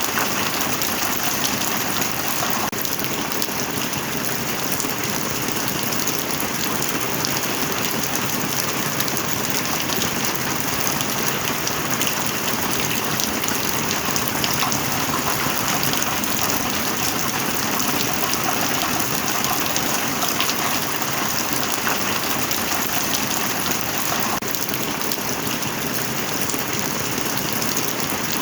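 Heavy rain falling steadily: a dense, even hiss of rain with many small drop ticks scattered through it.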